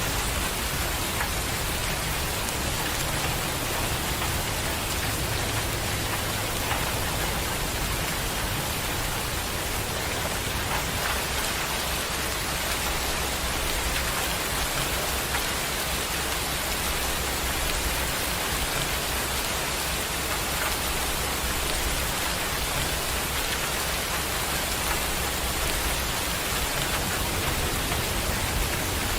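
Steady rain falling, an even hiss without a break, with a low rumble underneath at times.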